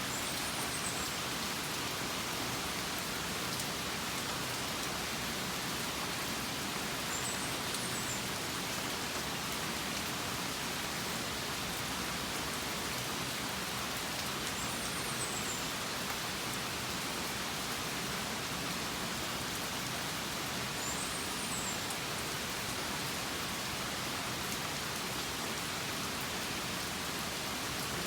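Steady rain falling, an even dense hiss. A short high chirp comes through four times, about every seven seconds.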